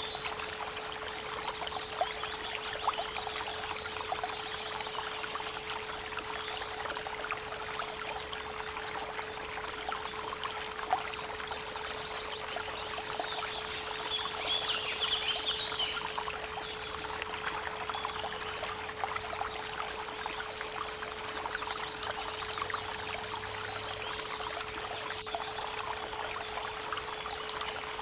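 Creek water flowing steadily, with birds chirping briefly now and then, over a continuous 432 Hz pure tone.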